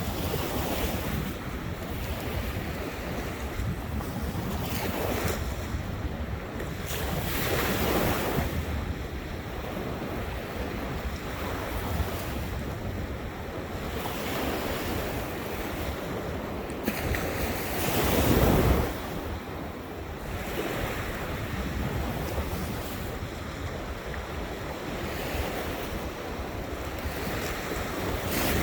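Ocean waves washing in and breaking on the shore in repeated surges, with wind buffeting the microphone; the loudest wave breaks about two-thirds of the way through.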